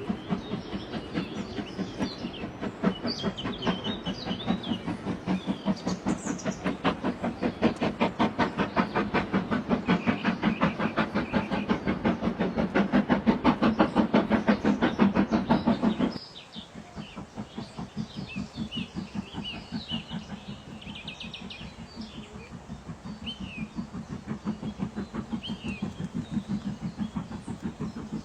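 Birds chirping over a loud, fast, regular pulsing of about three beats a second. The pulsing drops sharply in level a little past halfway through.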